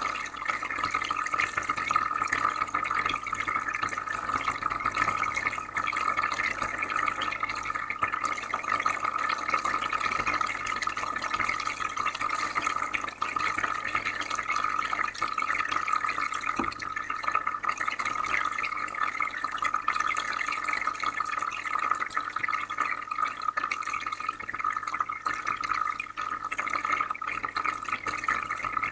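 Aquarium filter running: steady bubbling and trickling water with a faint low hum underneath.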